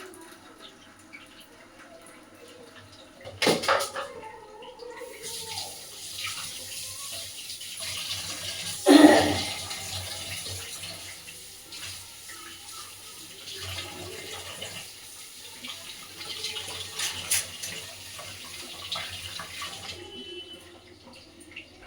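Kitchen tap running into a sink for about fifteen seconds, then shut off. There is a sharp knock before it starts and a loud clatter partway through.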